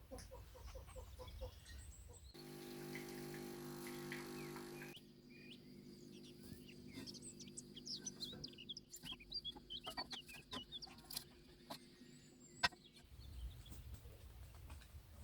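Poultry clucking and small birds chirping in many short quick calls, over a steady low hum.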